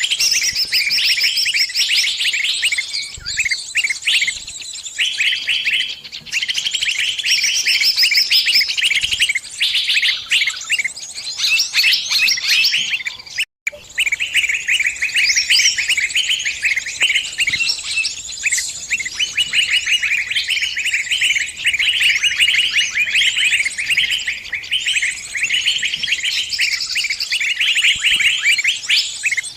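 Small birds chirping rapidly and continuously in dense, high twittering, presented as the distress calls of a trapped bird calling its flock for help. The sound cuts out for an instant about halfway through.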